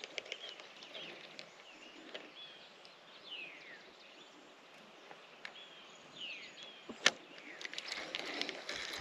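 Birds calling with short falling whistles, repeated several times over a faint outdoor background. Scattered small clicks, with one sharp click about seven seconds in.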